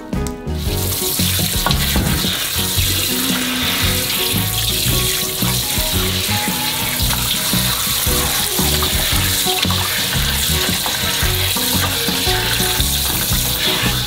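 Tap water running steadily into a stainless steel bowl and splashing over a whole raw chicken as it is rinsed by hand. It starts about half a second in and cuts off sharply near the end.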